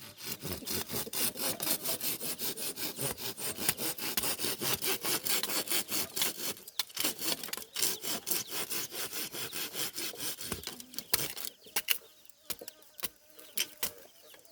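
Hand saw cutting through wood, most likely bamboo, in quick regular strokes of about three to four a second. The sawing stops about eleven and a half seconds in, followed by a few scattered knocks.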